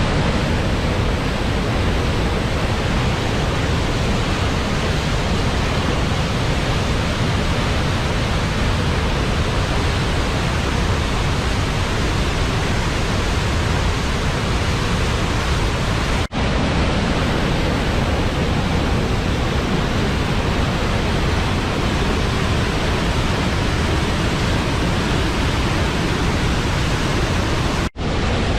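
Waterfall: a steady, loud rush of falling water with no change in pitch, broken off for an instant twice, about sixteen seconds in and near the end.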